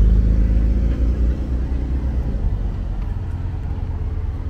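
A Porsche 911's flat-six engine running at low speed as the car creeps past close by. It makes a low rumble that is heaviest for the first second or so, then eases.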